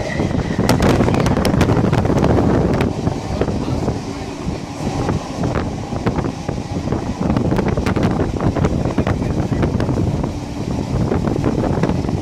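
Passenger train running at speed, heard from an open carriage window: wind buffeting the microphone over the rumble of the wheels on the rails, with scattered sharp clicks, most of them in the first few seconds.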